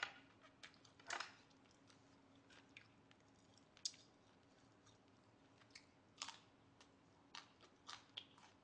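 Faint chewing and mouth sounds while eating, with short soft clicks scattered irregularly, the loudest about a second in and a few more near the end.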